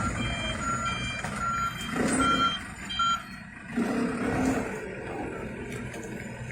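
Truck reversing alarm beeping about every 0.7 s, stopping about three seconds in, over a truck's diesel engine running, which swells louder a couple of times.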